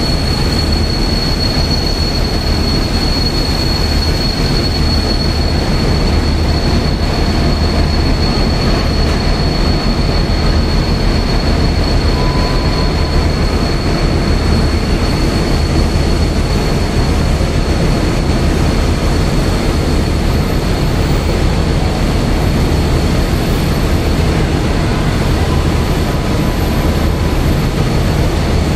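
Passenger train coaches rolling slowly past at low speed, being pushed in, with a steady low rumble and a continuous high whine.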